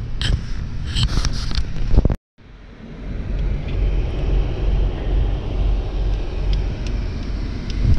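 Car on the move: steady low engine and road rumble with a hiss of tyre and wind noise. It fades in after a short break about two seconds in; before the break there are a few clicks and faint voices.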